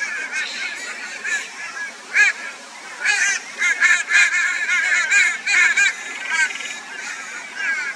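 A flock of crows giving loud, harsh, raucous calls, many short calls overlapping in a dense racket that builds from about three seconds in: crows mobbing a barn owl.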